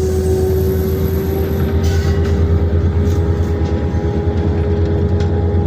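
Long train rolling past: a steady low rumble with a constant drone over it, and a few sharp clicks from the wheels.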